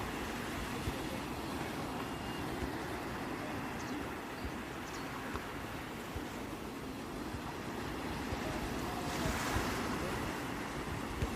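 Sea waves washing onto the shore, a steady surf noise with one wave breaking more strongly near the end.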